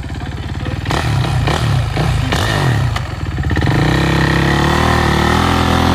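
Dirt bike engines running, the near one pulsing unevenly at first, then revving up and holding higher, louder revs for the last couple of seconds.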